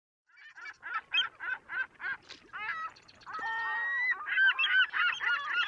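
Honking bird calls: short separate calls about twice a second at first, then many overlapping calls from a little past halfway.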